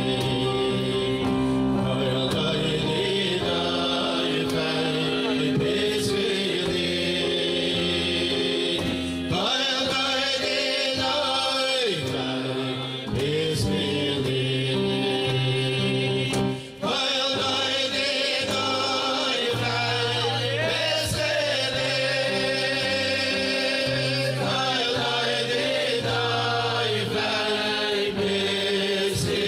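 Male voices singing a Jewish song together over instrumental accompaniment, with a steady bass line that moves from note to note every second or two.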